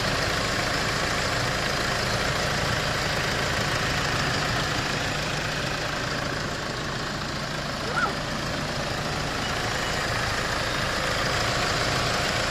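2.5 CRDi D4CB four-cylinder common-rail turbodiesel in a 2002 Kia Sorento idling steadily. This is a used replacement engine running after the original engine blew.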